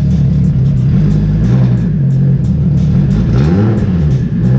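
A car engine revving up and back down about three and a half seconds in, and rising again near the end, under music with a steady beat.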